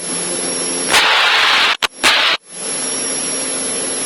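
Cessna 152's four-cylinder Lycoming O-235 engine and propeller at full power, a steady drone with a thin high whine over it, running close to the red line. The sound cuts out briefly a few times, and there are two short louder surges about one and two seconds in.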